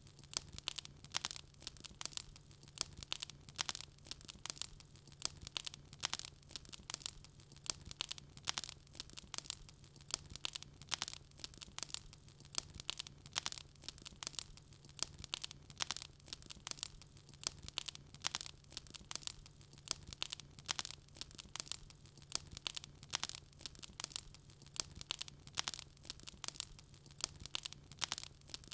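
Wood fire crackling and popping in a fireplace: a dense run of sharp snaps several times a second, over a faint steady low hum.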